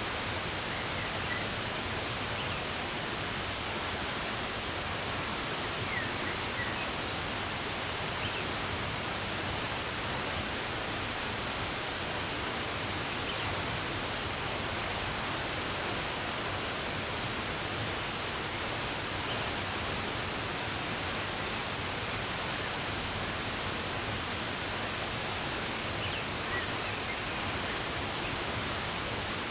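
Running water rushing steadily, with a few faint, scattered bird chirps over it.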